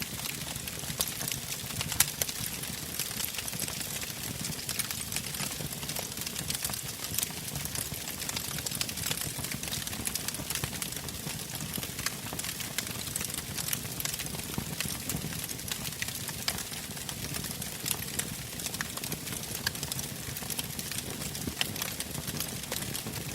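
Wood fire burning in a fireplace: steady crackling with frequent sharp, irregular pops over a soft low rumble, one louder pop about two seconds in.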